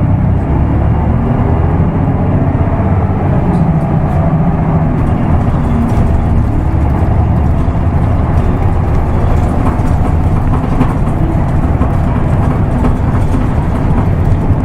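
Isuzu Erga Mio bus's diesel engine running under way, its note rising over the first few seconds as the bus accelerates, then pulling steadily.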